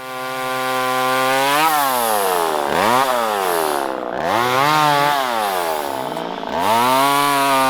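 Two-stroke chainsaw running at high revs, its engine pitch dropping sharply and climbing back several times as it works.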